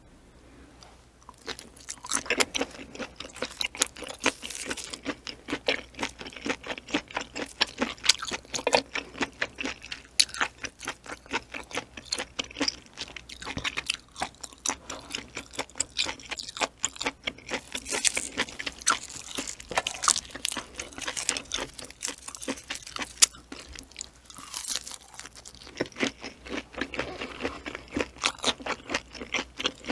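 Close-miked chewing of boiled octopus slices: dense, wet, crunchy mouth clicks and squelches that start about a second and a half in and keep going.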